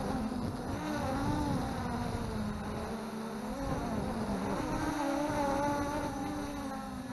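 MJX Bugs 3 quadcopter's four brushless motors and propellers buzzing, heard from the camera mounted on the drone, their pitch rising and falling as the throttle changes during aggressive flying. Gusty wind noise on the microphone underneath.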